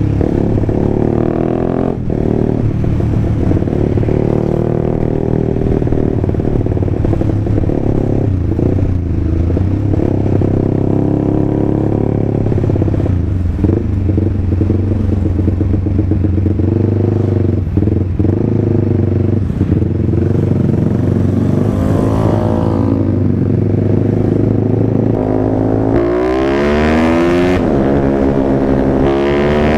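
Single-cylinder engine of a Honda CBR150R bored up to 180cc, running through a 3Tech EvoX X1GPR racing full-system exhaust with a carbon end tip while the bike is ridden. It runs steadily at first, and in the last few seconds the revs climb and drop twice.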